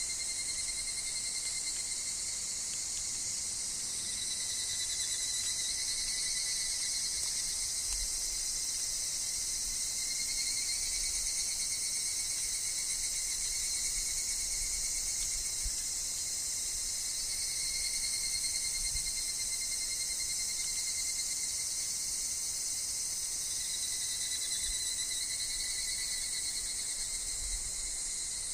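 A continuous chorus of calling insects, mainly higurashi (evening cicadas): a steady, dense high-pitched shimmer with thinner pulsing tones underneath that swell and fade over several seconds at a time.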